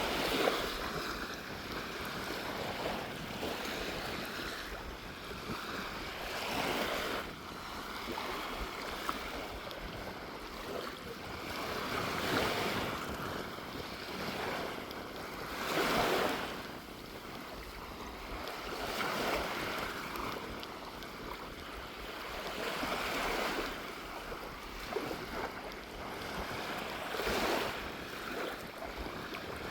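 Small waves breaking and washing up on a sandy beach, the surf swelling every few seconds. A sea breeze rumbles on the microphone underneath.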